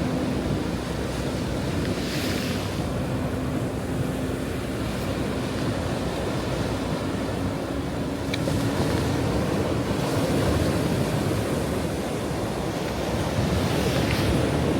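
Ocean surf breaking and washing on a shore: a steady low rumble of water, with brighter hissing washes about two seconds in and again near the end. A faint steady low hum sits under it and fades out after about ten seconds.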